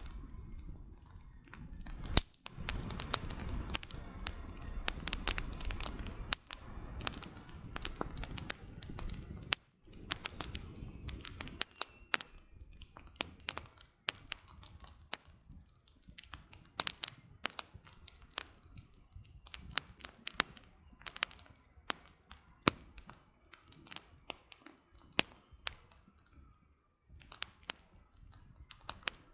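Campfire of burning firewood crackling, with irregular sharp pops and snaps. A low rushing of flames runs under the crackles from about two seconds in until about nine and a half seconds; after that the snaps come more sparsely.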